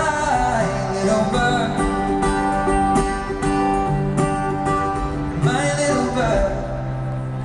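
Live acoustic guitar played through an amplified PA, with a few wordless vocal glides near the start and again late on.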